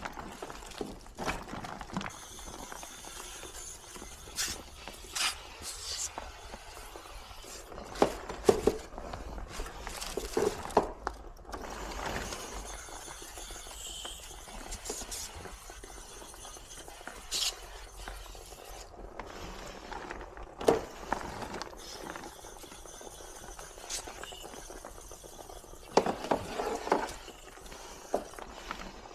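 Irregular clicks, knocks and short scraping sounds of hands and tools working on a wall-mounted air conditioner during cleaning, over a light steady background hiss.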